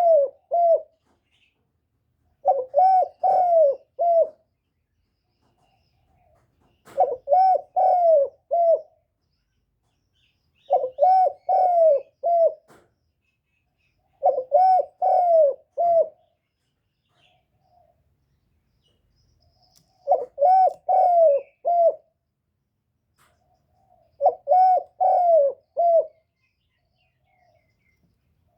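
Spotted dove cooing: short phrases of three to four coos, one phrase about every four seconds, with a longer pause around the middle.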